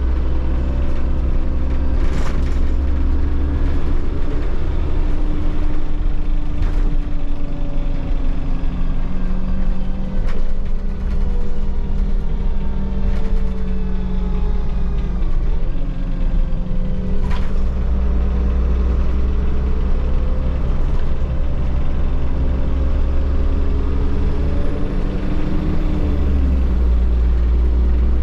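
Solaris Urbino 15 city bus with a Voith automatic gearbox, heard from inside the empty cabin while driving: the engine and drivetrain drone, their pitch rising and falling with speed and gear changes. A few sharp knocks or rattles sound in between.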